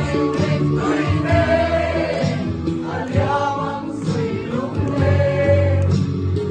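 Music: a group of voices singing together over an instrumental backing.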